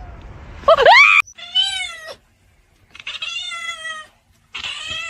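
A cat meowing four times in a row, the first call rising in pitch and the loudest, the following three longer and drawn out.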